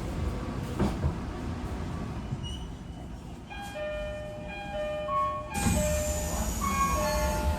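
A chime melody of steady stepping notes plays over the low steady noise of a Tokyo Metro 18000 series train, typical of a station stop. A little past halfway a sudden hiss sets in, with a high tone gliding slowly down.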